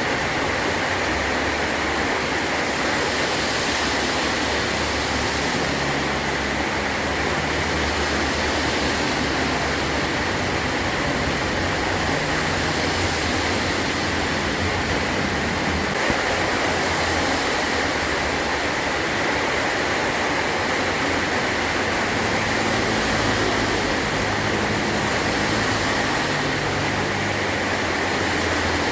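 Heavy rain drumming steadily on a metal roof, an even, unbroken hiss.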